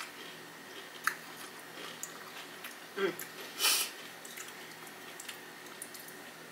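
Chewing of a Flamin' Hot Cheeto-coated fried pickle: soft mouth sounds with a few scattered crunches, and a louder crunchy burst about three and a half seconds in.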